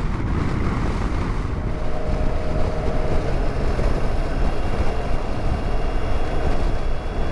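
Motorcycle riding at road speed: engine running under a heavy rush of wind on the microphone, with the gusty crosswind buffeting.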